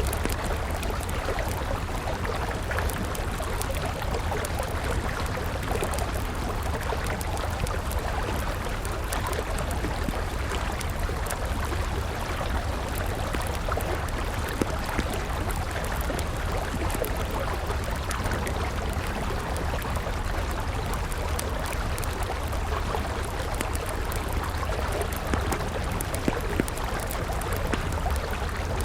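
A river flowing steadily with a deep low rumble, while a wood fire crackles over it in small, scattered pops.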